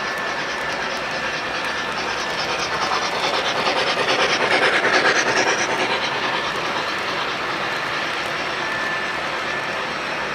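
Model train running along its track: steady rolling noise with the wheels clicking over the rail joints, swelling louder for a couple of seconds in the middle.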